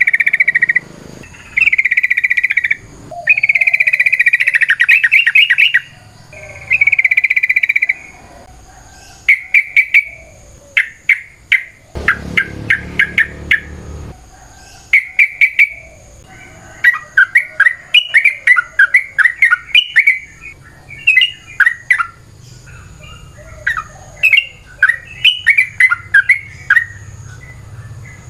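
Yellow-vented bulbul (trucukan) singing: several long, bubbly phrases near the start, then rapid runs of short chattering notes through the rest. A faint, steady, high-pitched whine sits under the song throughout.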